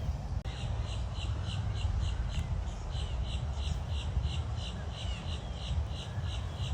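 A small bird calling over and over, a short sharp chirp about three times a second, over a low rumble of wind on the microphone.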